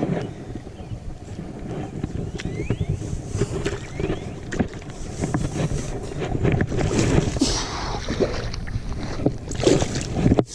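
Wind buffeting the microphone, a constant low rumble with scattered knocks and rustling from handling.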